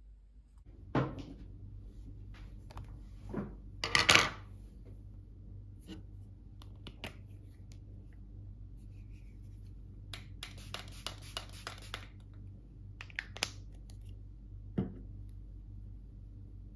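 Small objects being handled at close range: a few separate knocks, the loudest about four seconds in, and a short stretch of quick rattling clicks past the middle, over a steady low hum.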